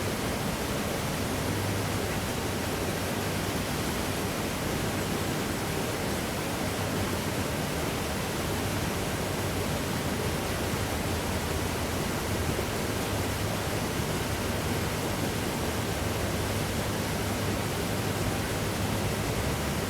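Steady, even rushing noise with no distinct events, and a faint low hum beneath it.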